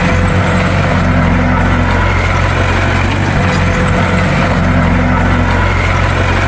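Bulldozer's diesel engine running steadily, with a constant low drone.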